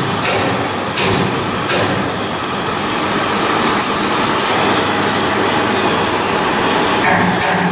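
Steady, loud mechanical noise of heavy machinery at work, with a few knocks.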